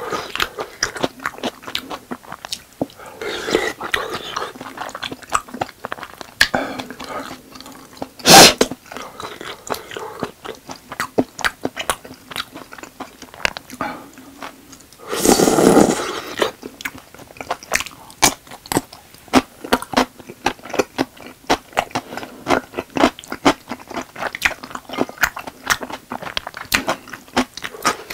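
Close-miked chewing of tteokbokki rice cakes in spicy sauce: a steady run of wet mouth clicks and smacks. A single loud, sharp clack comes about eight seconds in, and a louder noisy burst lasting about a second comes just past the halfway point.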